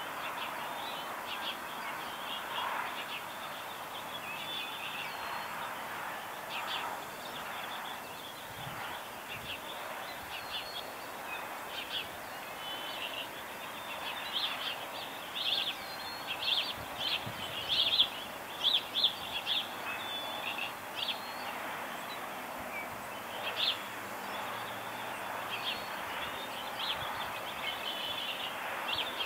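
Small birds chirping and calling at sunrise, a dawn chorus of many short high notes over a steady outdoor hiss. The calls come thickest about halfway through.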